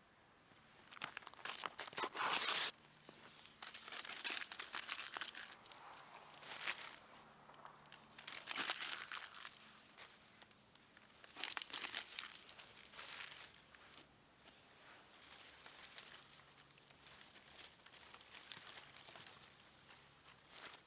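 Crinkling and rustling of something being handled, in irregular bursts, loudest about two seconds in.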